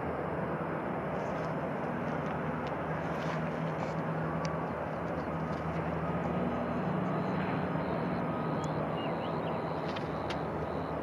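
Aircraft engines running, a steady rumble with a low hum that swells slightly in the middle.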